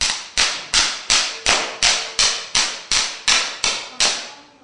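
A wireless fireworks firing system firing channels 1 to 12 in sequence: twelve sharp cracks, evenly spaced about a third of a second apart, each dying away quickly.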